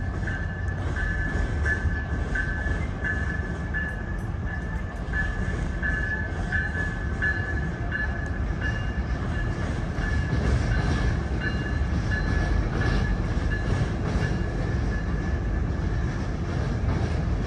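Amtrak passenger train rolling across a steel railroad bridge: a steady low rumble that grows somewhat louder partway through. A high thin tone pulses over it, a little more than once a second.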